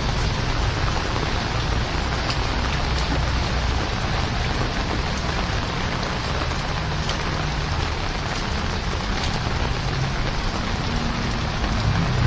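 Heavy rain falling steadily, with a few faint individual drop ticks and a steady low rumble underneath.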